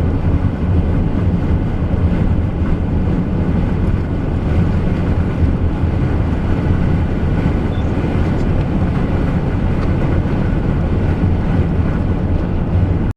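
Steady low road and engine rumble inside a moving car, with wind on the vehicle; it cuts off abruptly at the very end.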